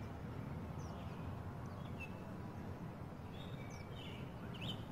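A few faint, short bird chirps scattered over a steady low outdoor background rumble.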